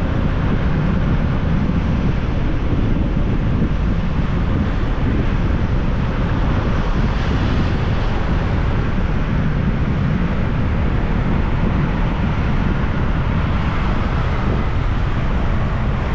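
Steady wind rushing over the microphone of a moving motorbike, with the bike and road noise under it.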